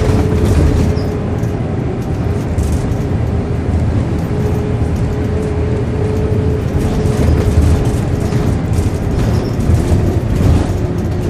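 Volvo B7RLE bus with its six-cylinder diesel running under way, heard from inside the saloon. There is a steady low rumble with a held, slightly wavering groaning tone over it, and light rattles from the body.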